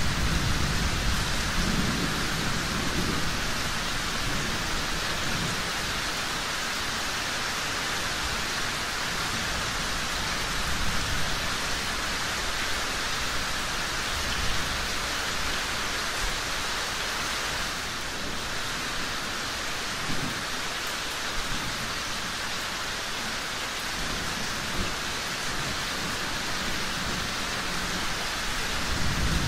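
Steady rain falling in an even hiss, with low rolls of thunder at the start, again about twenty seconds in, and at the end.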